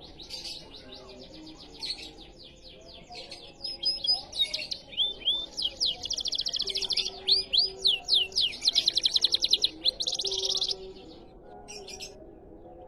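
Canary singing a fast trilling song: upswept whistles and runs of rapid repeated notes, loudest and densest in the second half. It breaks off about two seconds before the end.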